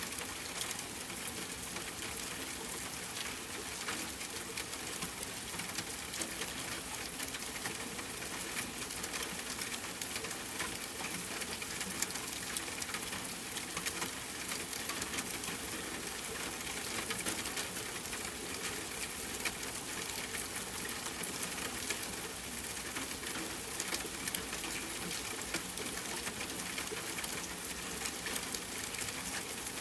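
Steady rain falling, a dense patter of drops with now and then a louder single drop hitting close by.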